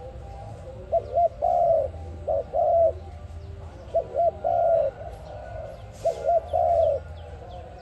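A dove cooing a repeated phrase: two short coos and then a longer held coo, starting about every two seconds. Faint small-bird chirps sound behind it.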